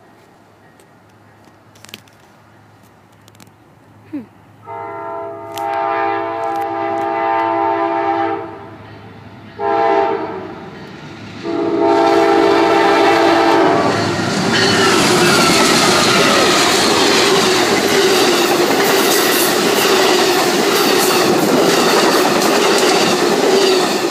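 Amtrak P42 diesel locomotive's air horn sounding a series of blasts, the first and last long, from about five seconds in. From about fourteen seconds the two P42 locomotives and their bi-level passenger cars pass close at speed: a loud, steady rush of engines and wheels on rail that carries on to the end.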